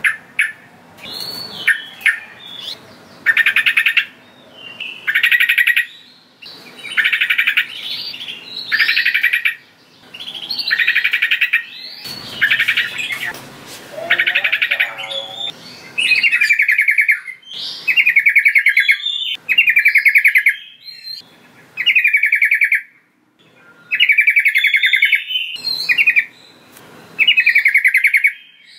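Sooty-headed bulbul (trucukan) singing: loud, fast-pulsed phrases of about a second each, repeated every one to two seconds.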